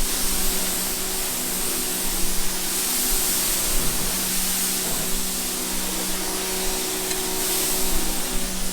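A cleaning machine running: a steady hiss with a steady motor hum underneath.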